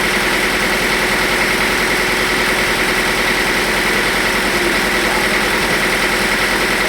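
Sawmill machinery running steadily, an engine-like drone with a steady high whine that does not change.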